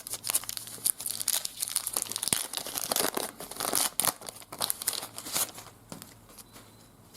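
A trading card pack wrapper crinkling and tearing as it is opened: a quick run of irregular crackles that thins out near the end.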